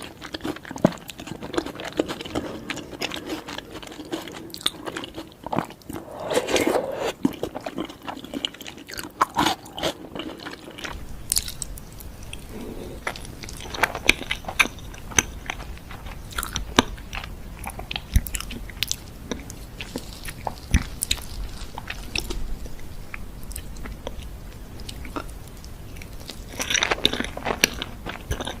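Close-miked eating sounds: a person biting into and chewing food, with many sharp wet clicks and crunches.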